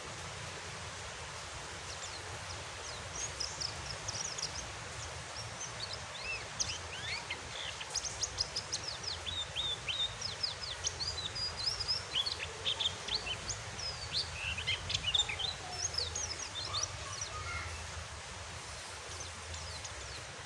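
A pleci (white-eye) twittering in quick, high chirps from a few seconds in until near the end, over a steady hiss of rain.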